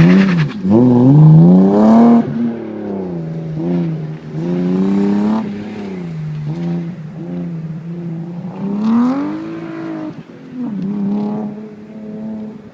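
BMW E36 exhaust through a Bimmerworld race exhaust with center resonator, driven hard through an autocross course: the engine note repeatedly climbs under acceleration and drops off when the throttle is lifted. It is loudest in the first two seconds, with another strong climb about nine seconds in.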